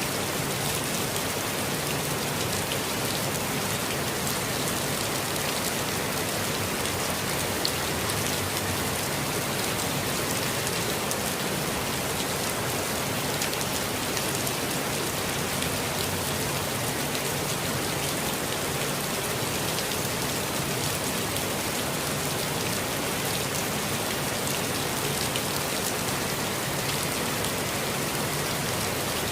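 Steady rain falling, an even hiss with many small drops ticking on surfaces, unchanging throughout.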